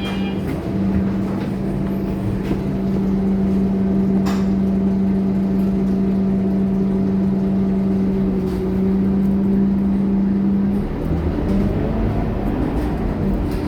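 Scania K230UB city bus running along the road, with a steady hum over the engine rumble. About eleven seconds in, the hum breaks off and the sound changes. A single click comes about four seconds in.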